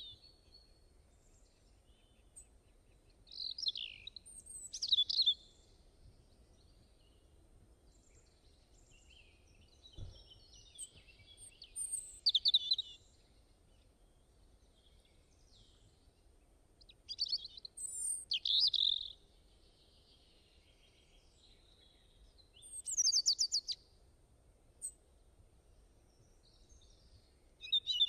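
A songbird singing short, varied phrases of a second or two, repeated every five or six seconds with pauses between, over a faint steady background hiss.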